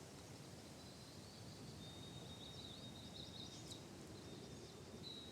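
Faint outdoor ambience: quiet background hiss with distant birds giving a few high chirps around the middle.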